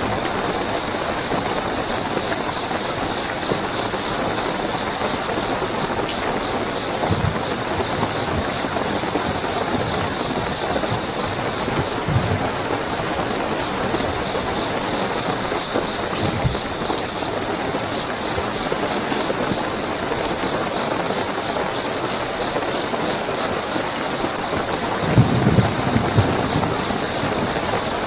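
Steady heavy rain with a continuous high trilling of night crickets over it. A few brief low thumps break through, the strongest about 25 seconds in.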